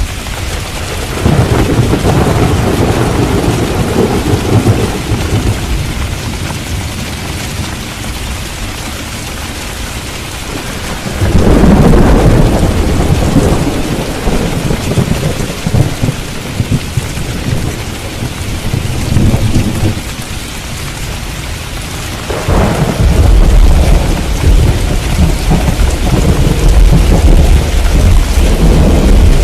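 Heavy rain falling steadily, with rolls of thunder rumbling three times, about a second in, near the middle and again toward the end, each swelling and dying away over several seconds.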